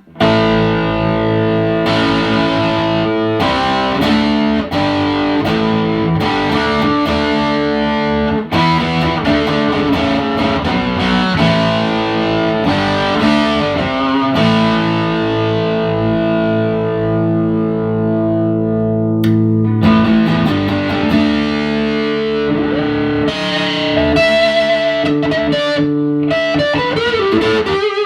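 1979 Gibson Les Paul Custom electric guitar played through a Boss DS-1 distortion pedal into a Fender Hot Rod DeVille 4x10 combo amp: chords and single notes with a little grit, held chords ringing and changing, the last chord ringing out at the end.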